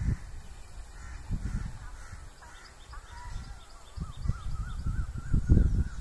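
Birds calling: a wavering trill and a run of short, evenly repeated chirps from about halfway, over low, uneven rumbling.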